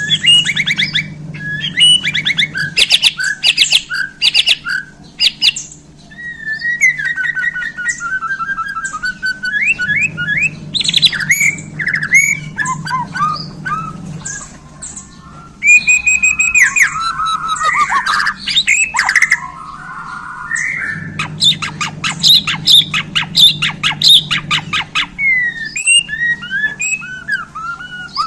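White-rumped shama (Bornean murai batu) singing a fast, varied song of rapid trills and rattles mixed with whistled notes and gliding phrases. A low hum runs underneath in stretches.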